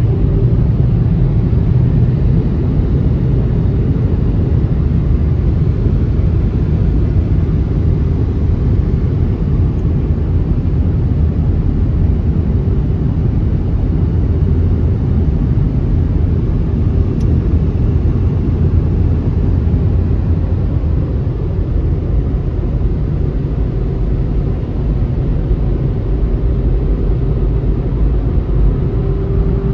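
Automatic car wash machinery running: a loud, steady low rumble with a faint hum that fades after the start and returns near the end.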